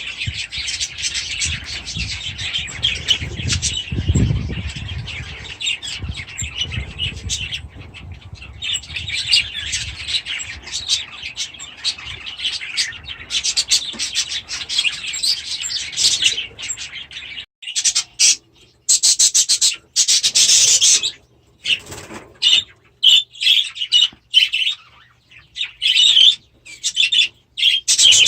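A flock of budgies chattering and chirping, a dense continuous chatter over a low rumble for the first half or so, then broken into separate bursts of chirping with silent gaps in between.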